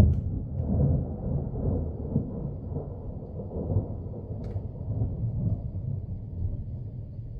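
Thunder rumbling and slowly dying away after a loud peak, with one short click about four and a half seconds in.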